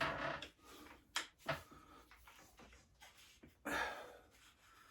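Faint handling noises: two short knocks, then a brief scrape or shuffle, as an object is moved out of the way on a workbench.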